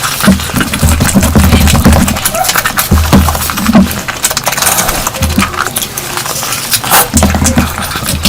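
Eating sounds of a person eating curry: chewing and wet smacking, with many quick clicks and repeated low thumps.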